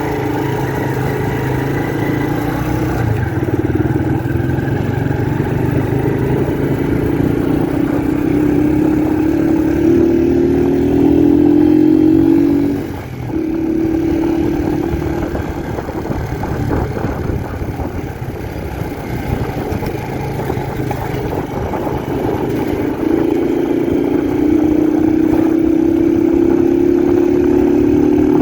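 Honda 125 CDI motorcycle's single-cylinder engine under way. Its note climbs steadily in pitch until it drops away sharply about halfway through, then runs lower and steadier before climbing again near the end.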